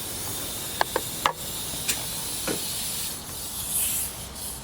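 Compressed air hissing steadily from a tire inflator while a tire is aired up, with a few light clicks early and a brief louder burst of hiss near the end.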